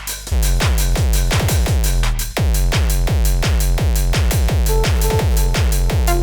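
Electronic techno groove played live on hardware drum machines and samplers, Yamaha RM1x and Akai MPC Live: a deep pulsing bass and hi-hat ticks under a fast run of pitch-falling electronic blips, about four or five a second. Held synth notes come in about three-quarters of the way through.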